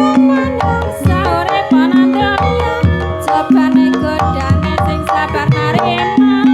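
Javanese Banyumasan gamelan music (gending) accompanying a jaranan dance: kendang hand-drum strokes over ringing metallophone tones, with a wavering, ornamented melody line above, and a low sustained tone returning about every two seconds.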